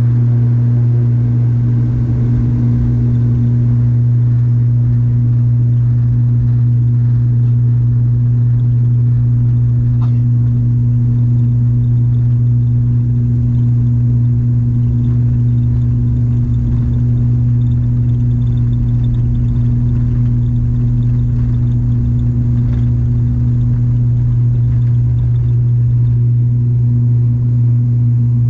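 Turboprop airliner's engines and propellers droning steadily, heard from inside the cabin as the plane prepares for takeoff. It is a loud, even hum with a low rumble beneath that neither rises nor falls.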